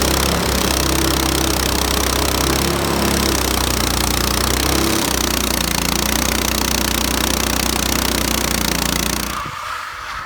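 Frontier OS18 portable bandsaw mill running under load, its gas engine droning steadily while the band blade cuts slowly through a hard black walnut log. The engine and cutting noise drop away abruptly about nine and a half seconds in.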